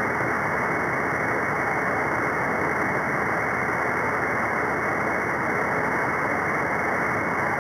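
Steady radio static from an SDRplay receiver tuned to an 11-metre CB free-band frequency above channel 40: an even hiss with no voice, cut off sharply above about 2 kHz by the receiver's audio filter.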